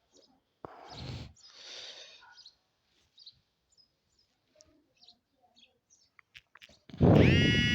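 Birds chirping faintly and sporadically, then a loud drawn-out bird call starting near the end.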